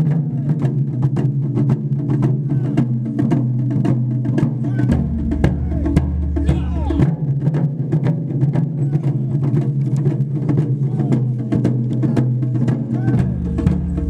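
Japanese taiko drums playing in ensemble, a fast steady stream of strikes over a sustained low drum rumble. A deeper bass drum layer comes in twice, once around the middle and again near the end.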